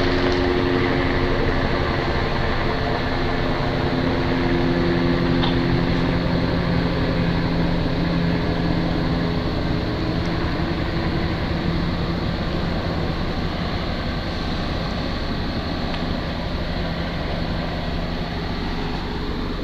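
Helicopter circling overhead, a steady engine and rotor drone with several held low tones, fading slightly as it moves away toward the end.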